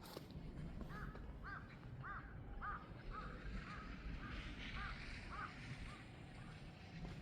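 A bird giving a series of about ten short, arched calls, roughly two a second, that stop about six seconds in.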